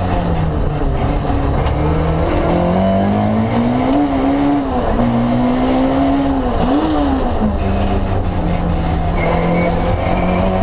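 Rally car engine heard from inside the cockpit, pulling hard with its pitch climbing over the first few seconds, dropping sharply twice around the middle as the throttle is lifted, then running lower and steadier.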